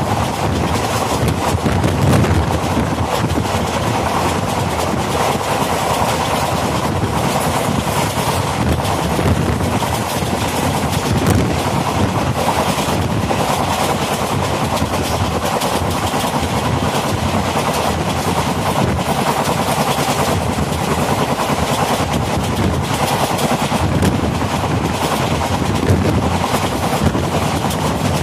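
Indian Railways passenger coach running at speed: steel wheels clattering steadily on the rails with a dense rush of air and rattle, loud and even throughout.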